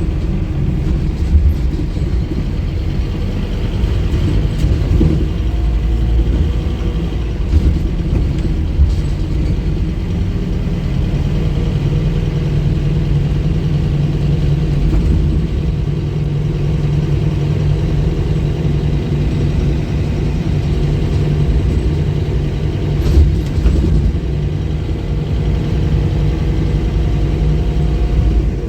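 Scania K230UB bus's five-cylinder diesel engine running steadily under way, a low hum with a few sharp knocks and rattles along the way.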